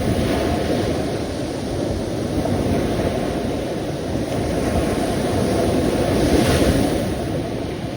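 Sea waves washing and breaking on the shore in a continuous low wash that swells and ebbs, with a stronger surge about six and a half seconds in. Wind buffets the microphone.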